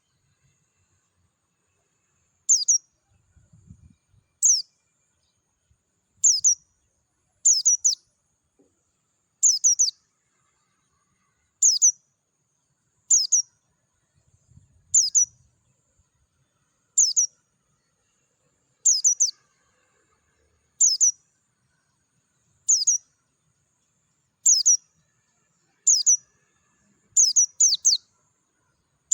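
A white-eye (pleci dakun) calling: short, high, clear chirps that sweep downward, repeated about every one and a half to two seconds, some given as quick doubles.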